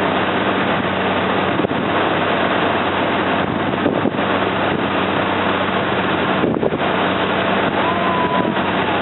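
Engine of a river slow boat running steadily underway, with wind buffeting the microphone.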